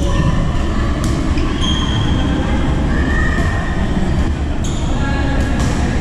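Badminton rally: court shoes squeaking on the floor in short high chirps, with a few sharp racket strikes on the shuttlecock, over a steady low rumble.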